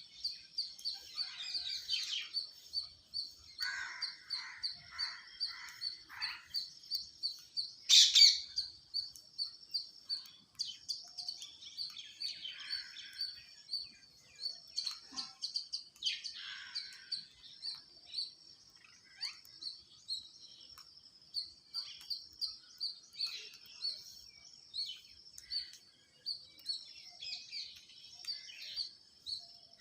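Birds chirping: a steady run of high, short chirps, about three to four a second, with other calls over it, among them a string of five lower notes and one loud sharp call about eight seconds in.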